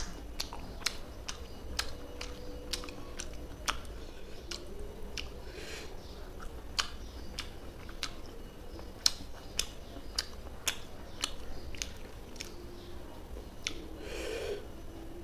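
Close-miked chewing of fish curry and rice eaten by hand, with many sharp wet mouth clicks and lip smacks, irregular, about two a second.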